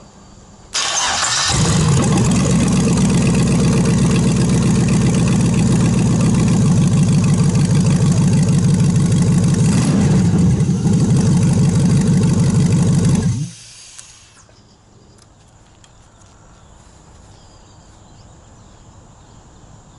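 Chevy 5.3 L LS V8 started by jumper wires to the fuel pump and ignition: it cranks and catches about a second in, runs steadily for about twelve seconds, then is switched off and dies away.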